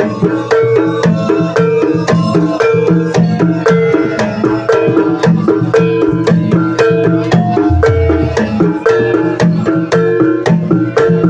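Gamelan accompaniment for an ebeg hobby-horse trance dance: tuned keys struck in a fast, repeating pattern over hand-drum strokes, with a deep gong-like note ringing out about eight seconds in.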